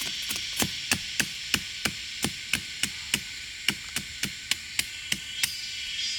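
Rapid, regular blows on wood, about three a second, over a steady high hiss.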